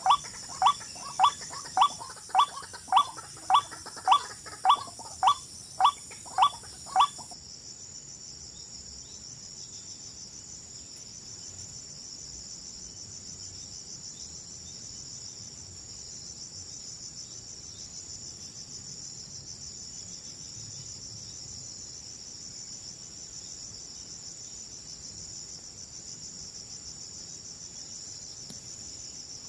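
Steady high-pitched insect chorus of crickets trilling. For the first seven seconds it is overlaid by a loud, sharp animal call repeated about every half second, which stops abruptly.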